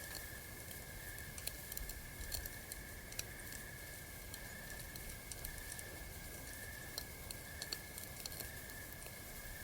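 Campfire crackling, with irregular small pops and snaps scattered through, over a steady high trill of night insects.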